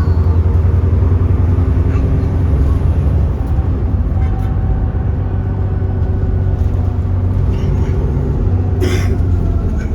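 Alexander Dennis Enviro400 double-decker bus's diesel engine running while under way: a loud, steady low drone with engine tones over it. A brief hiss comes near the end.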